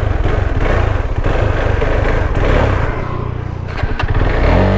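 KTM 390 Adventure's single-cylinder engine labouring on a steep uphill climb, its revs rising sharply near the end. The bike is short of torque on the climb and keeps stalling, which the rider puts down to some engine issue.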